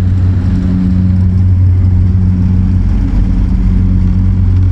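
Saab turboprop airliner flying over, its propellers making a steady low drone.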